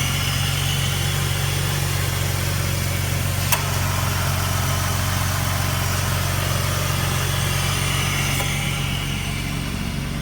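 2004 Jeep Liberty's 3.7-liter V6 idling steadily, with a sharp click about three and a half seconds in and a fainter one near eight and a half seconds. The clicks fit the AC compressor clutch engaging over and over, which the owner takes for a bad compressor.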